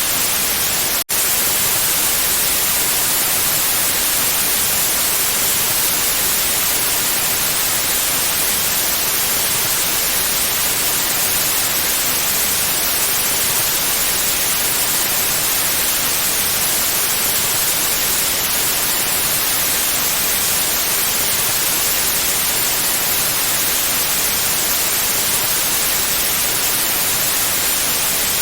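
Pure white noise: a steady, even hiss with no tones or rhythm, briefly cut by a split-second dropout about a second in.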